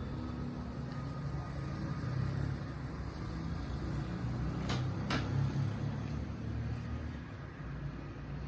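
Low rumble of thunder, swelling a couple of times, with two sharp clicks close together about five seconds in.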